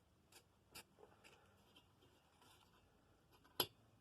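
Faint scratching of fine emery paper rubbed by hand against the exhaust valve and its seat on a small flathead engine, in short uneven strokes, with one sharp click about three and a half seconds in.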